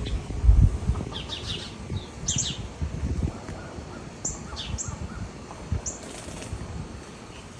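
Songbirds chirping: short, high chirps scattered through, over an uneven low rumble that is loudest about half a second in.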